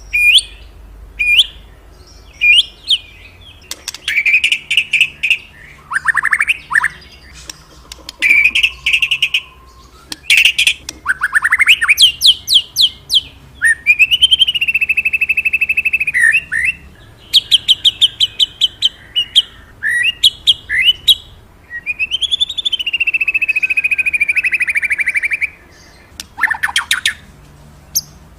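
A murai (Copsychus) songbird singing a loud, varied song: quick chirps, rising and falling whistled sweeps and rapid trills, with two long held whistled notes, one about halfway through and another later on.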